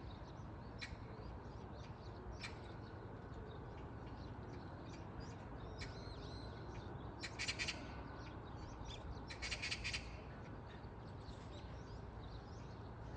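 Wild birds calling. Two loud bursts of rapid, harsh calls come about seven and nine and a half seconds in, over scattered short chirps of other birds and a steady low rumble.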